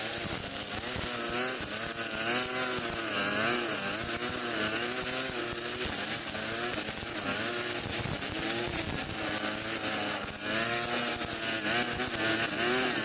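Petrol brush cutter with nylon trimmer line running at high speed and cutting grass. Its engine note keeps rising and falling as the load changes, a high screaming whine.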